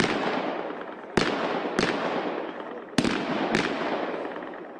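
Gunshots on a firing range: about five single shots, mostly in pairs a little over half a second apart, each followed by a long echoing tail that fades.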